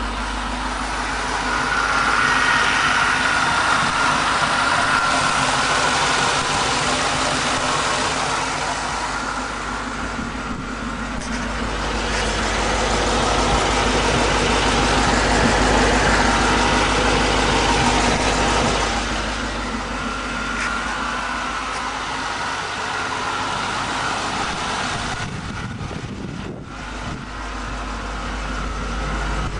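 2002 Ford Mustang GT's 4.6-litre V8, with X-pipe and Roush side exhaust, running with a strange noise from under the car that the owner cannot identify. The sound grows louder twice for several seconds, with a faint high whine while it is loud.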